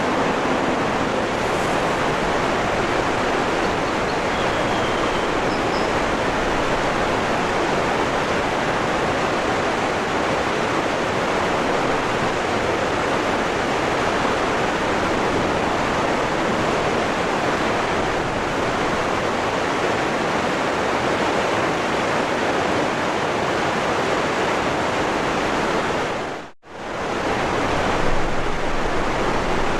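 Waterfall rushing in a steady, even roar of falling water. About 26 seconds in it fades out almost to silence for a moment and fades straight back in.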